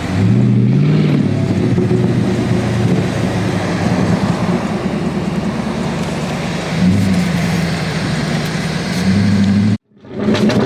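Car engine running, its pitch rising and falling briefly about a second in as it is revved, then holding steady. The sound cuts off abruptly for a moment near the end.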